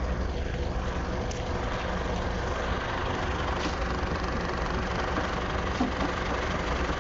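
Steady low rumble of a running vehicle, with a faint steady hum over it.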